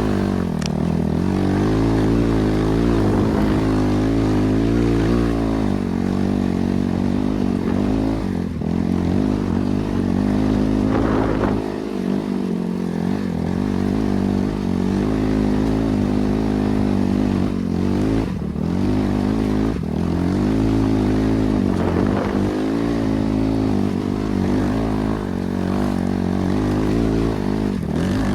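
BRZ MX8 motorcycle's NB300 single-cylinder engine running under way, its revs rising and falling again and again with the throttle, with a few brief dips.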